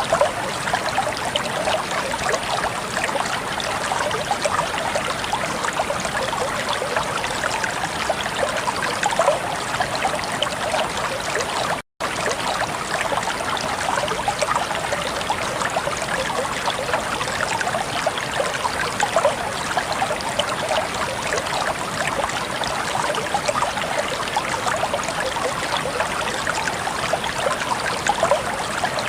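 Flowing water babbling and trickling steadily, with many small splashes and gurgles. About twelve seconds in, the sound cuts out for a split second.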